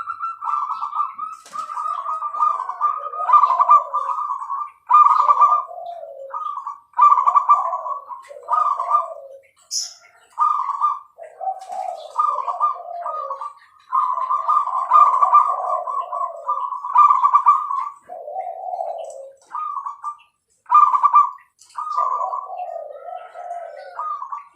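Zebra dove (perkutut, Bangkok song type) cooing over and over in clear, rolling phrases. Each phrase starts on a higher trilled note and drops into lower coos, with short breaks between phrases.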